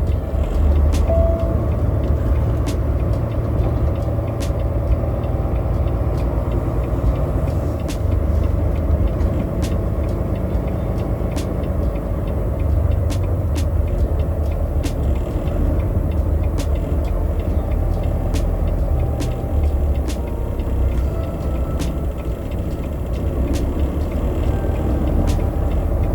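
Truck engine and road noise while driving: a steady low rumble with faint, scattered clicks.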